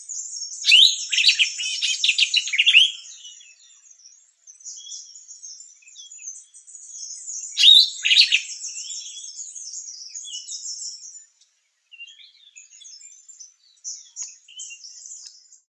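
Sombre greenbul calling: a loud burst of rapid call notes lasting about two seconds, starting just under a second in, and a shorter loud burst near eight seconds in. Southern double-collared sunbirds and Cape white-eyes keep up a thin, high twittering in the background throughout.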